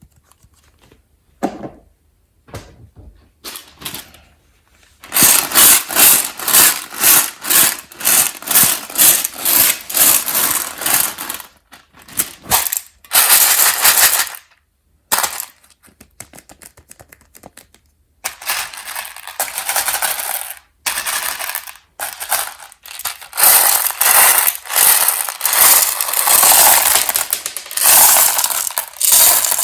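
Hard-shelled peanut M&M's candies clattering and rattling against one another and a hard surface. They come in quick runs of tiny clicks with short pauses, the longest stretches starting about five seconds in and again around eighteen seconds.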